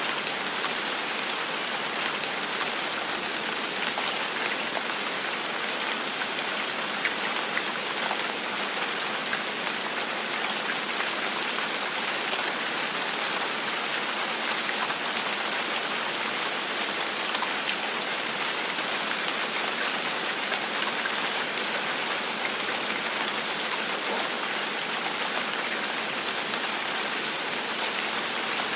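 Steady gentle rain falling on a surface, an even hiss with scattered individual drop ticks.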